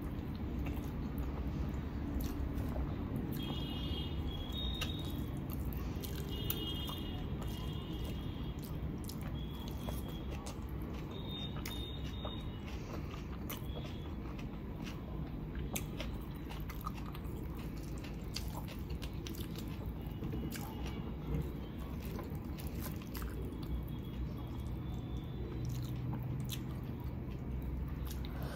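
Close-up chewing and mouth sounds of a person eating chicken biryani by hand, with many small clicks throughout.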